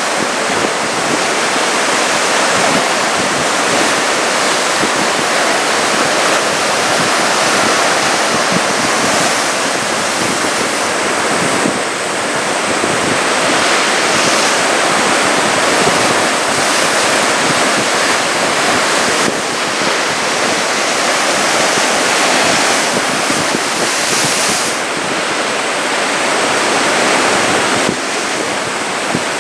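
Surf breaking on the shore in a continuous loud rush of waves, the swell driven by an approaching typhoon.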